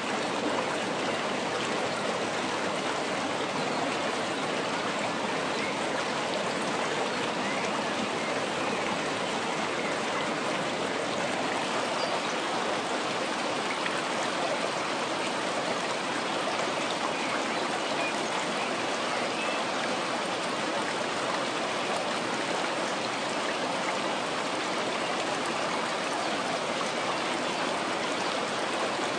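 Water flowing in a stream, a steady rushing babble with no pauses.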